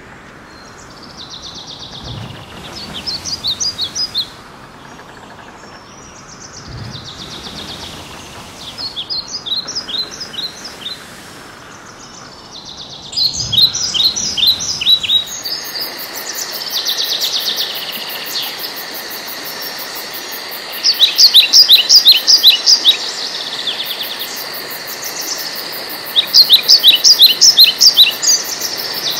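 Birdsong: a small bird repeating short phrases of rapid, high chirps every few seconds, louder in the second half, over a steady background hiss.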